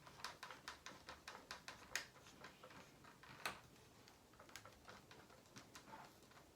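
Light, irregular clicks and taps, a few a second, with two sharper clicks about two and three and a half seconds in: small metal and plastic parts and hand tools being handled while mounting the engine in a radio-controlled model helicopter.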